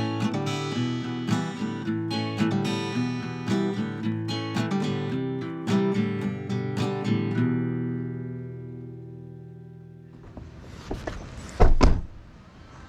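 Strummed acoustic guitar music, ending on a chord that rings out and fades about two thirds of the way through. Near the end comes a single loud thump.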